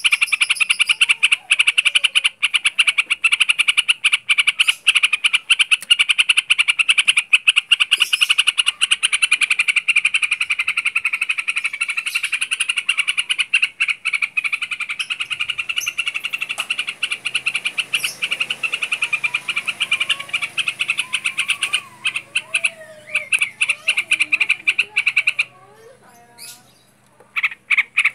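A fast, steady pulsing trill that dominates throughout, breaking off briefly about three seconds before the end and then starting again. Softer gliding whistled notes of a yellow-vented bulbul (trucukan) come through over the second half.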